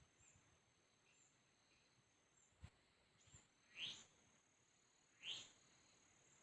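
Faint birdsong in the mountains: two clearer calls sliding down in pitch about a second and a half apart, over soft repeated chirps and a steady high-pitched insect whine. A brief low thump comes a little before the first clear call.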